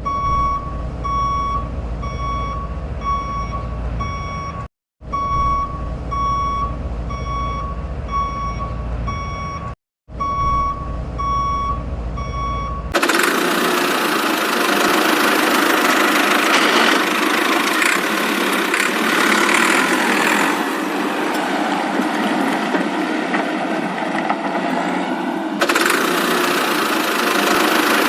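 A truck's reversing alarm beeping steadily, about three beeps every two seconds, over a low engine rumble, broken by two short cuts. About 13 seconds in, it gives way to a dense rushing noise without the low rumble.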